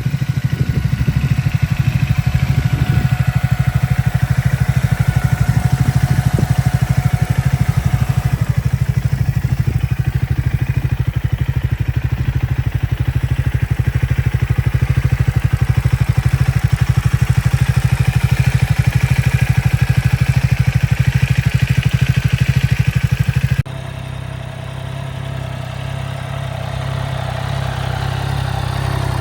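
Triumph Speed 400's single-cylinder engine running steadily. Near the end it cuts suddenly to another motorcycle engine, quieter at first and slowly growing louder.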